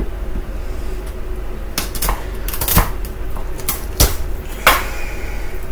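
Knife cutting raw chicken wings apart at the joints, heard as a handful of sharp knocks and clicks, the loudest about four seconds in.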